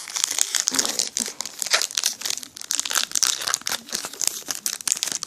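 Foil booster pack wrapper crinkling and crackling continuously as it is handled.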